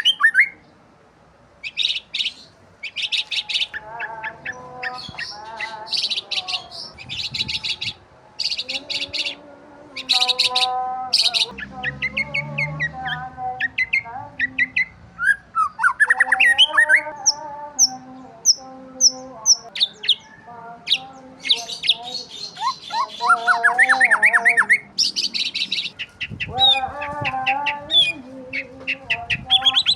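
Several birds chirping and calling over one another: quick runs of sharp high chirps, rising whistled sweeps, and lower, harsher calls.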